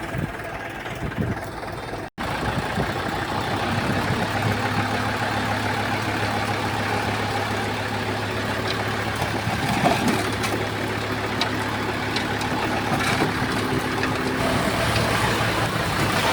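Diesel engine of a Komatsu D31P crawler bulldozer running steadily at a constant pitch. A few sharp clanks come in the first two seconds, before a momentary break in the sound.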